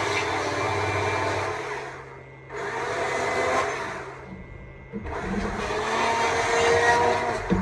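Stihl MSA 200 C battery chainsaw running while carving wood. It stops twice for a moment when the trigger is let go, then speeds back up.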